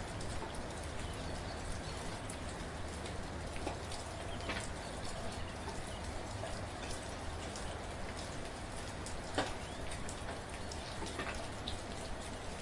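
Soft, steady rain, with scattered individual drops tapping on surfaces. One drop lands louder about three quarters of the way through.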